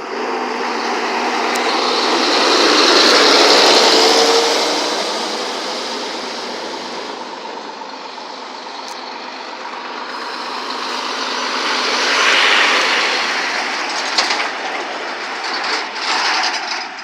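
Scania trucks driving past, with engine and tyre noise swelling and fading twice: one pass peaks about three seconds in and another about twelve seconds in.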